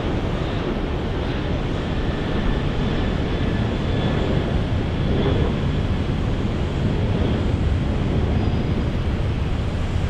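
Jet airliner engines running with a steady roar and a faint high whine, mixed with wind rumble on the microphone.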